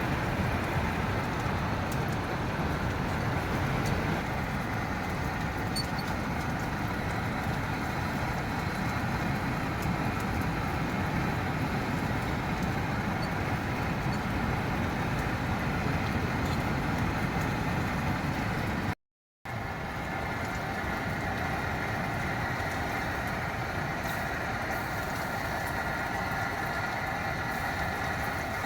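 Steady noise of heavy wind and rain, with a strong low rumble. It breaks off for a split second about two-thirds through.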